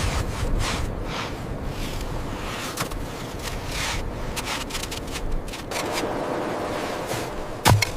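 Wind blowing steadily, with repeated short scraping and rubbing sounds over it and a sharp knock near the end.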